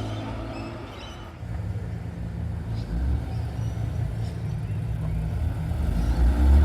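Car engine rumbling at low revs as a car pulls out, growing louder. Near the end the revs begin to climb.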